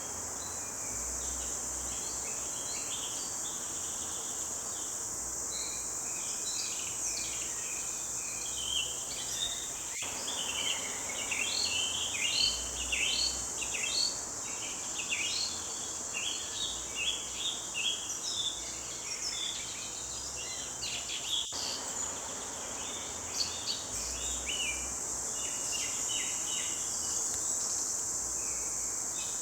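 A chorus of songbirds singing short, quick chirping phrases, busiest through the middle stretch and thinning near the end. Beneath it runs a steady high-pitched insect drone.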